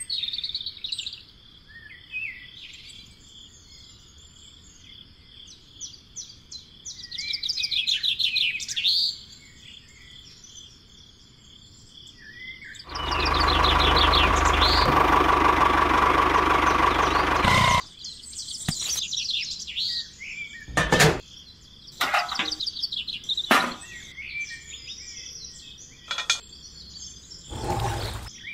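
Birds chirping throughout over a steady high insect-like tone. About halfway through, a loud motor-driven machine runs for about five seconds with a steady whine, then cuts off suddenly. Several sharp knocks follow.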